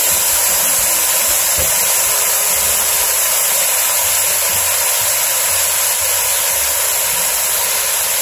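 Chicken pieces and onion sizzling in hot oil in an enamelled cast-iron soup pot, a steady even hiss.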